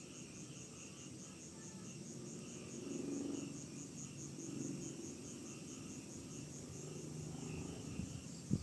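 Crickets chirping in a steady, even pulse of about four chirps a second, over a faint low background hum.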